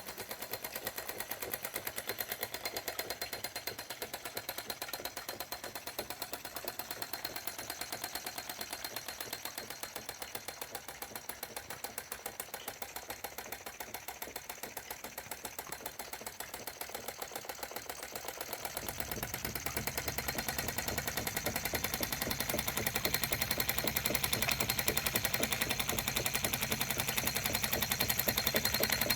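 Empire B30 toy steam engine running under steam and driving a B35 toy water pump, with a fast, even mechanical ticking. About two-thirds of the way through it gets louder and fuller in the low end.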